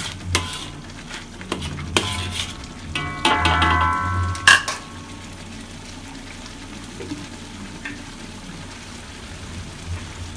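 A metal spatula scrapes and stirs chilli paste in an aluminium wok, with a sharp clank about four and a half seconds in. After that the paste sizzles steadily in the oil as it fries until the oil separates.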